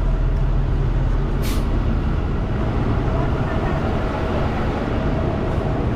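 Wind buffeting the microphone of a phone mounted on a moving bicycle, with road and traffic noise, and a brief hiss about one and a half seconds in.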